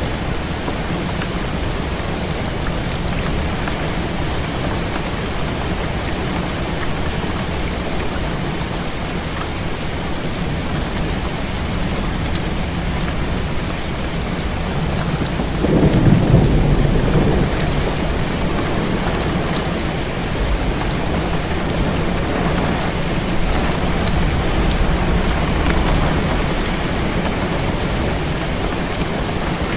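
Steady heavy rain, with a low roll of thunder about halfway through.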